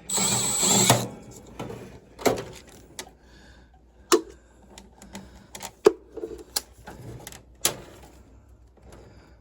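Hands working on furnace parts: about a second of loud scraping and rustling, then a string of separate sharp clicks and metal taps as the parts are handled.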